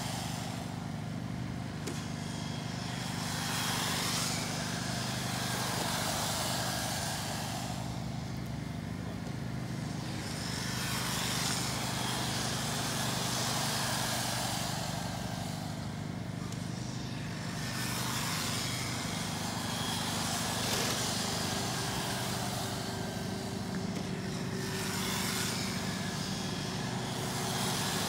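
A pack of electric RC stock cars running laps, their motor whine and tyre noise swelling as they pass close and fading as they go round the far end, about every seven to eight seconds, over a steady low hum.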